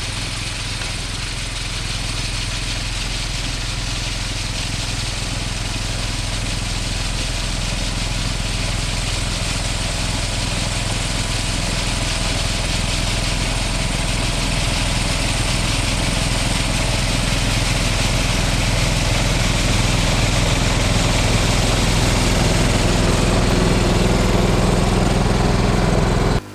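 John Deere 185 lawn tractor's 17-horsepower Kawasaki engine running steadily while driving a single-stage snowblower, growing gradually louder over the stretch.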